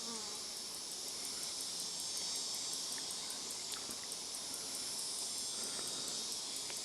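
Insects calling together in a steady high-pitched chorus, with a fast, even pulsing over the top.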